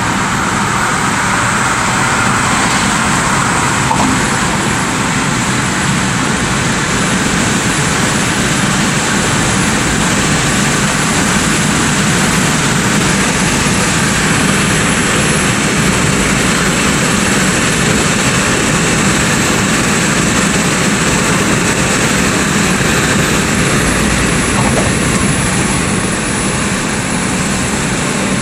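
Car driving: a steady, even rush of engine and road noise that holds the same level throughout.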